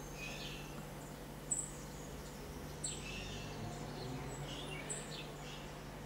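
Small songbirds calling: a few short, sharp high chirps one to two seconds apart, mixed with brief lower whistled notes.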